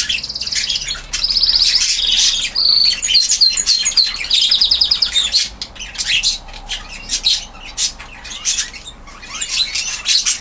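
Domestic canary song: fast rolling trills and runs of repeated notes for about the first five seconds, then scattered chirps for the rest.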